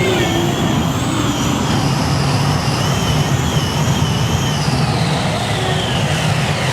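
Competition pulling tractor's engine running hard at full power, with a high whistling whine over it that wavers in pitch and falls near the end.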